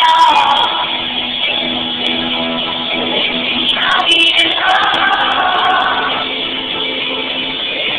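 Live rock band playing: electric guitars and vocals over the full band, loud and heavily compressed.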